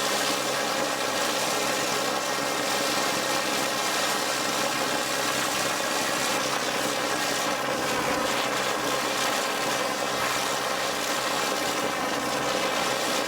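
Prototype TR Mk I turborocket engine running steadily on fuel: a constant rushing noise with several steady whining tones over it, holding speed without change.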